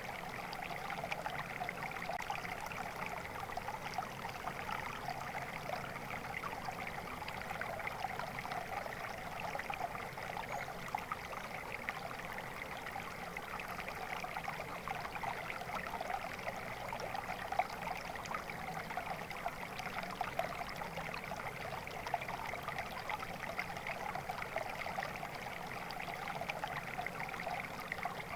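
Water flowing steadily over rocks, a continuous babbling and splashing with no breaks.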